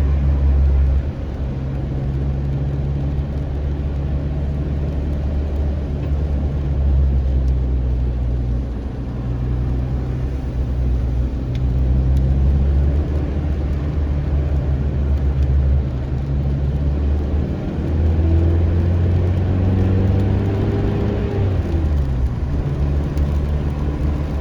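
Car engine and road noise while driving, steady with the engine note shifting several times; the engine pitch rises for a few seconds as the car speeds up, then drops sharply near the end, like a gear change.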